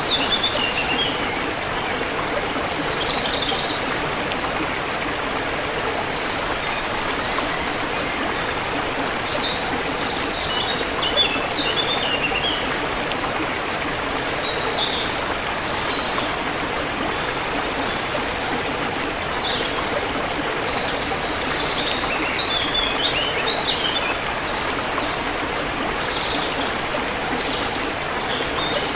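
Forest river water flowing steadily, with small birds chirping in short high twittering runs every few seconds.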